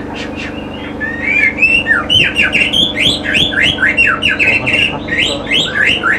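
Caged songbird singing a fast run of loud, sharp, downward-sliding notes, about five a second, starting about a second in, over a steady low hum.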